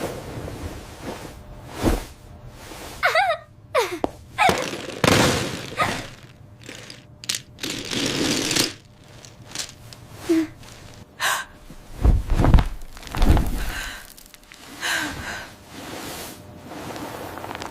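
AI-generated food ASMR sounds: an irregular string of crunches, cracks and thunks, with a brief wavering squeak about three seconds in and a few heavier thuds about twelve to thirteen seconds in.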